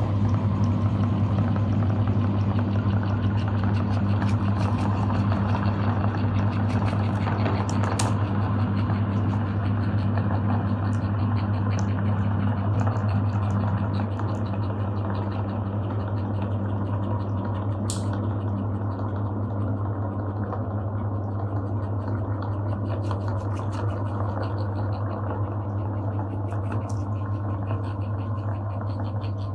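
Electric meat grinder running steadily with a strong low hum while soft ice cream is pushed through it, giving a wet, crackling churn over the motor. It gets a little quieter about halfway through.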